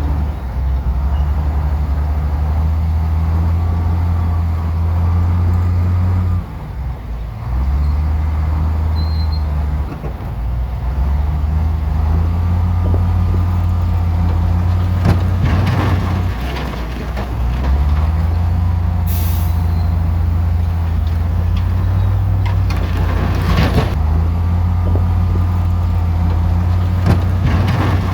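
Heavy diesel earthmoving equipment working: a deep engine drone that rises and falls in pitch as it is loaded, with scraping and clanking around the middle and near the end. A brief hiss of air comes about two-thirds of the way through.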